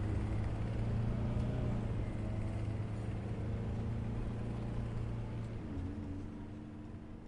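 Steady low vehicle engine rumble that slowly fades away toward the end.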